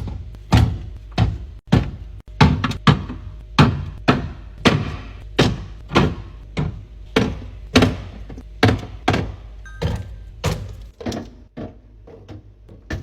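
A series of hard plastic and glass thunks and knocks, roughly one or two a second, as containers and bottles are set down and arranged in a refrigerator, thinning out near the end.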